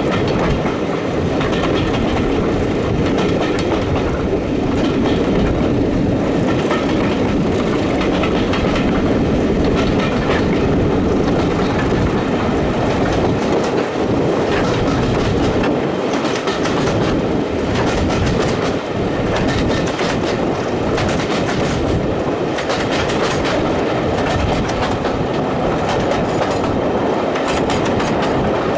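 Diesel train running along the track: a steady rumble, with wheels clicking over rail joints, the clicks coming thicker in the second half.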